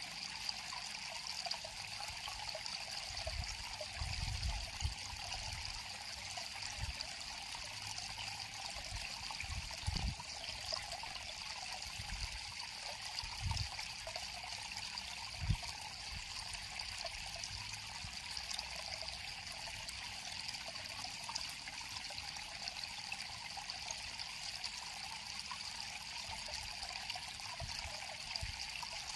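River water flowing and trickling steadily, with a few soft low thumps, the sharpest about fifteen seconds in.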